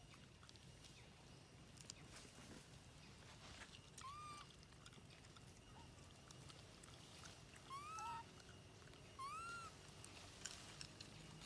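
Three faint, short animal calls, each rising and then falling in pitch, spaced a few seconds apart over a low, steady background hum.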